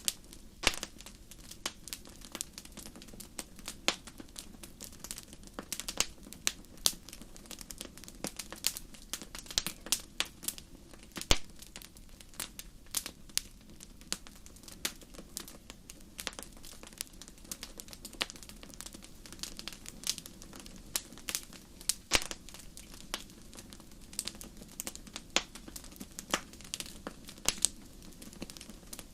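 Wood fire burning in a fireplace: a low steady rush of flames with frequent sharp, irregular crackles and pops.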